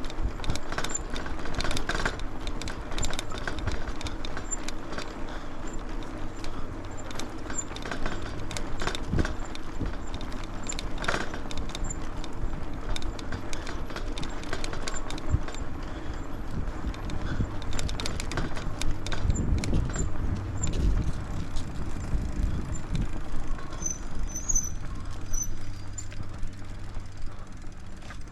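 Cradiac Alpha geared mountain bike riding over a rough off-road track: a steady rolling rumble of tyres with frequent rattles and sharp knocks as the bike jolts over bumps.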